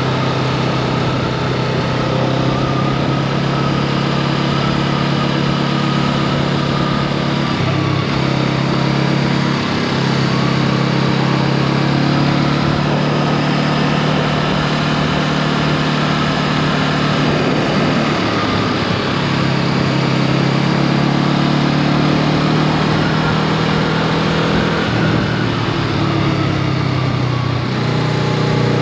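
Honda Rebel 500's 471 cc parallel-twin engine running under way on the road, its pitch stepping up and down a few times as speed and throttle change.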